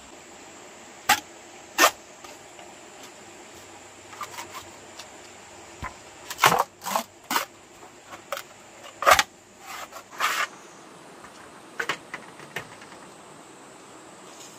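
Irregular knocks and clatters, about a dozen short sharp hits with uneven gaps, over a steady faint high hiss.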